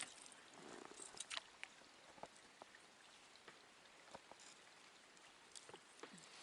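Near silence: a faint hiss with scattered, irregular soft clicks and taps.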